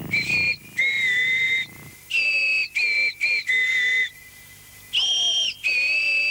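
A budgie whistling a short tune: a series of clear, held notes stepping up and down in pitch, with a pause part-way through.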